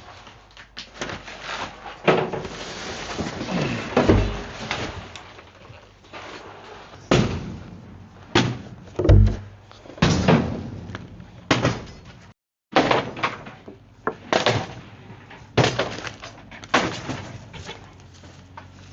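Demolition of a mobile home: a dozen or so heavy blows and breaking crashes as cabinets, drawers and debris are smashed apart, with cracking and clattering after the hits.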